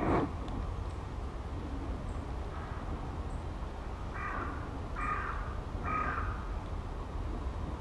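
A wild bird giving three calls about a second apart, over a steady low rumble.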